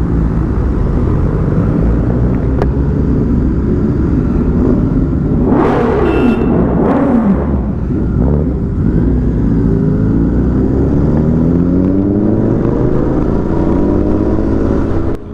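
Royal Enfield Continental GT 650's parallel-twin engine under way at speed, its pitch rising and falling with throttle and gear changes, over heavy wind noise on the helmet mic. A louder rushing surge comes about halfway through, and the sound drops off suddenly at the very end.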